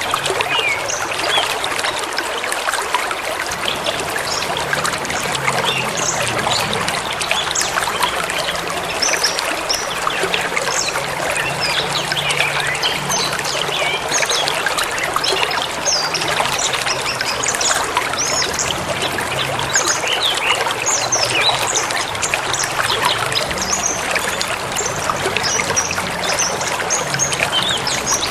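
A forest river or stream flowing steadily over stones, with many small birds chirping and singing over it.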